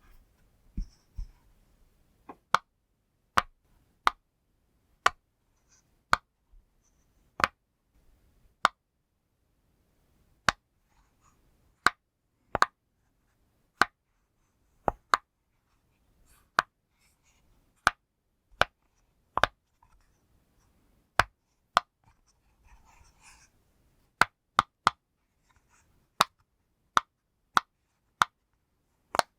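Pop fidget toy's bubbles being pressed one at a time, each giving a sharp pop, roughly one a second with the odd quick pair or triple. There is a brief soft rustle of handling about two-thirds of the way through.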